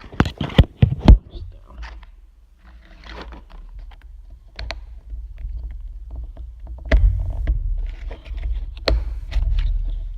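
Handling noise from a small plastic display stand and its packaging: a quick run of sharp clicks and knocks at the start, then scraping and rustling with a few more clicks, over a low rumble of hands and objects knocking the table or microphone.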